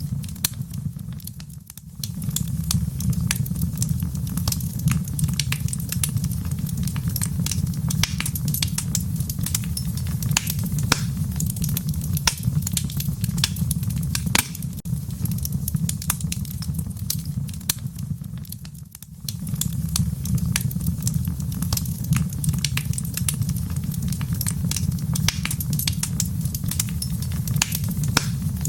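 Wood fire crackling in a fireplace: dense, irregular sharp pops and snaps over a steady low rumble of the flames. The sound briefly fades and comes back twice, about a second and a half in and again near 19 seconds.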